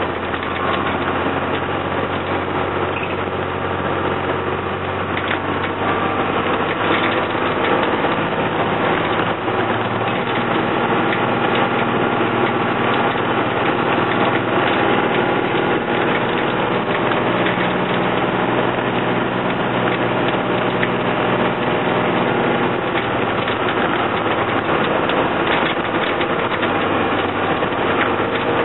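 5.9-litre Cummins turbo diesel of a 1997 Ford B800 school bus working hard at full throttle up a hill, heard from inside the cab, its engine note shifting in pitch a few times along the climb.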